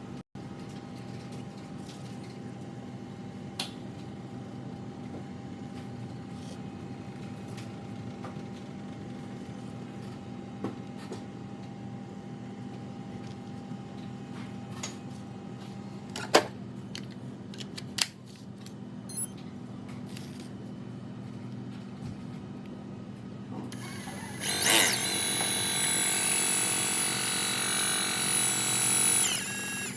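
Steady low hum with a few sharp clicks, then about 24 seconds in the two brushless drone motors of a homemade battery pressure washer start up with a whine. They run for about five seconds and wind down.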